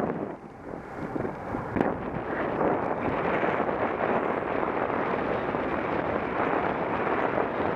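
Wind rushing over an action camera's microphone on a moving bicycle: a steady rushing noise that drops away briefly near the start, with one sharp knock about two seconds in.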